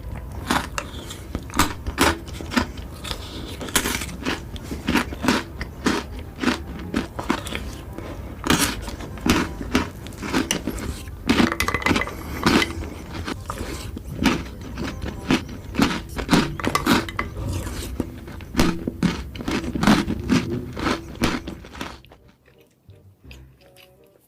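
A person biting and chewing food close to the microphone: a dense run of sharp clicks of chewing that stops about two seconds before the end.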